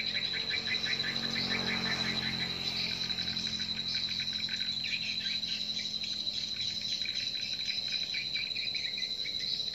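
Swiftlet lure call sound: dense, rapid twittering chirps of edible-nest swiftlets over a steady high-pitched tone, played to call swiftlets into a swiftlet house.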